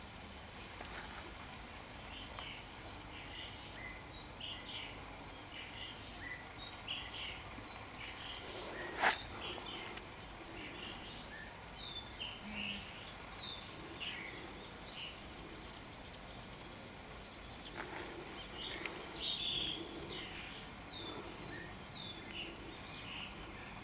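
Many small birds chirping in short, scattered calls over steady background noise, with one sharp click or knock about nine seconds in.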